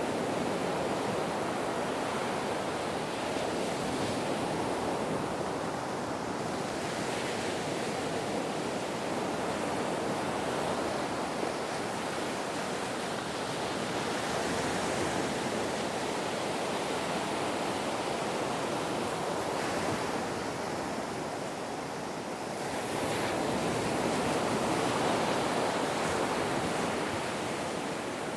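Ocean waves washing on the shore in a continuous rush that swells and eases gently, with a louder surge near the end.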